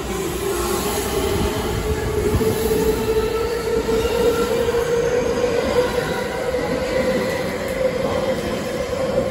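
A ten-car electric train, a JR West 225 series 100 set coupled to a 223 series 2000 set, runs past at speed along the platform. There is a steady rumble of wheels on rail, and a tone above it climbs slowly in pitch.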